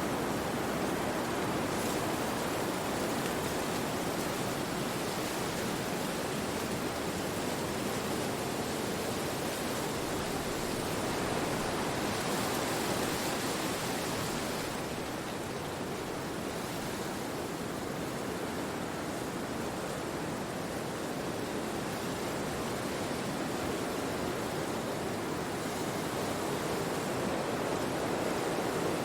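Wind rushing through forest trees, a steady noise that swells gently about halfway through and then eases.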